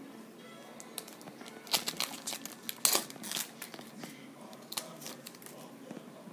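Trading-card pack wrapper crinkling and tearing as it is opened: a cluster of sharp crackles from about two to three and a half seconds in, and a few more near five seconds.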